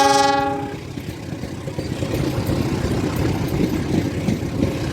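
A train's horn blast ends about a second in, followed by the steady rumble of the train running.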